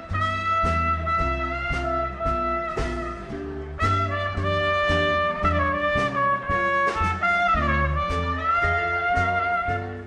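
A swing band plays an instrumental passage, a lead horn holding long notes over an upright bass walking in short steady notes and drums keeping time. The lead bends down in pitch and comes back up about three-quarters of the way through.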